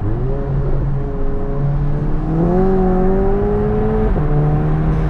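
The 2015 VW GTI MK7's turbocharged 2.0-litre four-cylinder, Stage 2 tuned with a downpipe and the resonator deleted, being revved through its exhaust. The revs rise in steps, hold high for a couple of seconds, then fall back near the end.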